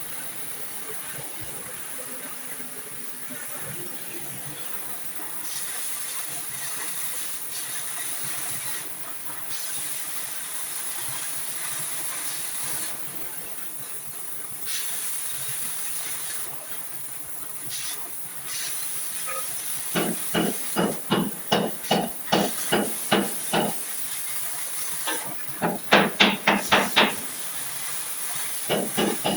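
Repeated hammer blows on a car's sheet-steel body, about three a second, starting about two-thirds of the way in, with a quicker, louder run of blows near the end. A steady high hiss runs underneath.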